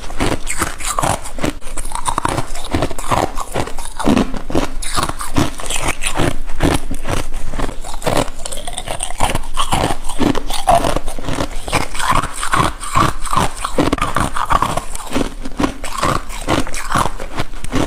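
A person biting and chewing solid freezer frost ice close to the microphone: a dense run of crisp crunches, several a second.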